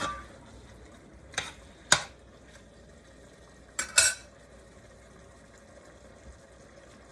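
A metal utensil clinks against a cooking pot while stirring: two knocks about a second and a half in and two more about four seconds in. Underneath is a faint steady sizzle of chicken browning in the pot.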